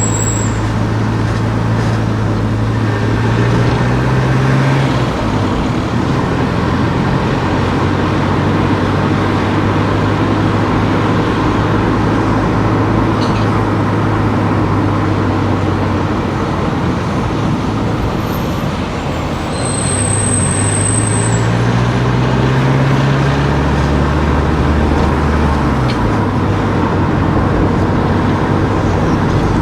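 Car engine and road noise while driving, the engine note rising twice as the car accelerates and then falling back.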